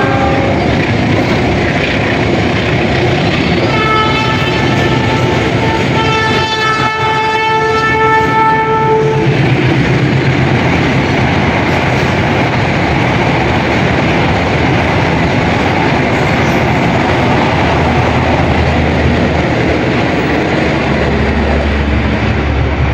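Train horn sounding twice, a short blast and then a longer one of about three seconds, over the steady rumble and wheel clatter of a long flat-wagon freight train running through the station.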